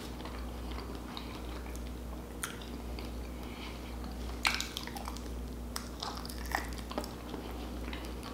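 Close-miked eating: biting into and chewing a barbecue-sauced chicken wing, with scattered wet smacks and clicks of the mouth, the loudest about four and a half seconds in.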